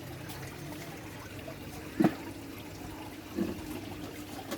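Steady trickle and splash of water from a small aquarium waterfall, with a short, loud sound about two seconds in and a fainter one over a second later.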